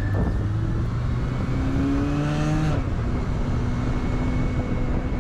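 Honda CB400SF's inline-four engine running on the move, its pitch creeping up and then dropping a little under three seconds in before holding steady, over a constant rush of noise.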